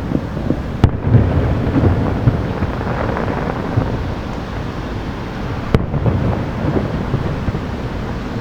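Distant aerial fireworks booming in a continuous low rumble with irregular thuds, with two sharp cracks, about a second in and again near six seconds in.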